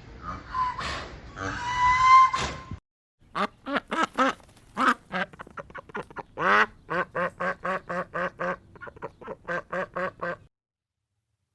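Duck quacking in a long, rapid run of short calls, about three a second. It follows a different sound that cuts off abruptly about three seconds in.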